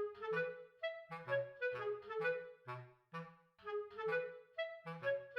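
Bouncy background music of short detached woodwind notes, clarinet-like, with a plucked bass line underneath, about two or three notes a second.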